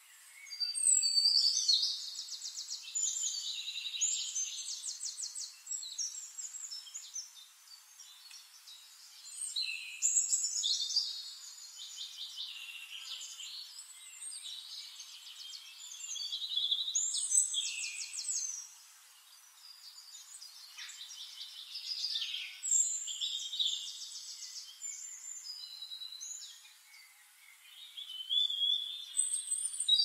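Songbird song in repeated phrases of rapid trills and chirps, a loud phrase about every six to seven seconds with softer song between them.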